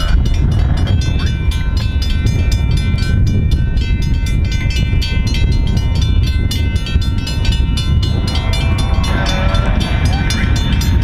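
A train rumbling steadily through a grade crossing while the crossing bell rings in fast, even strokes.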